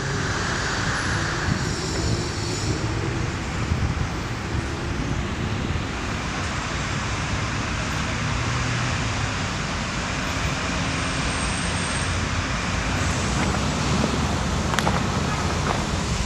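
Steady road-traffic noise, an even hum of vehicles running past.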